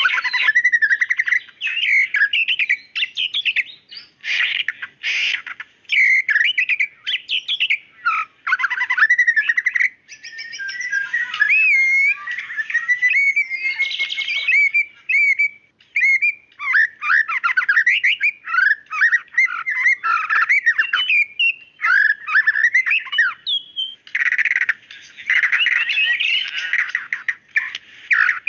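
White-rumped shama (murai batu) singing a long, varied song of loud whistles, sliding notes and rapid chattering phrases, with short pauses between phrases.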